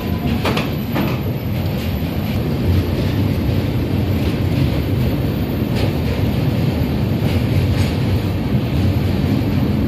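Train running over a steel truss bridge: a loud, steady rumble with a few sharp clicks.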